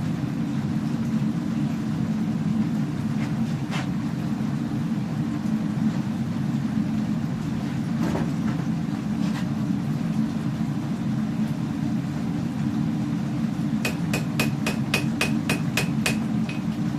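Hammer striking hot steel on an anvil, about nine quick ringing blows at roughly three a second near the end, over a steady low drone.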